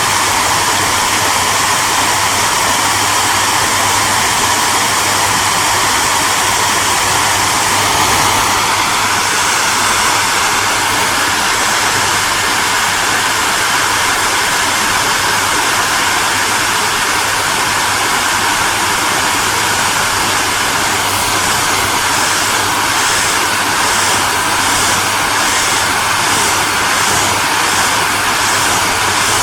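Hair dryer running continuously: a steady rush of air with a low motor hum underneath. About eight seconds in, its pitch steps up slightly, and from about two-thirds of the way through the high hiss pulses evenly, about one and a half times a second.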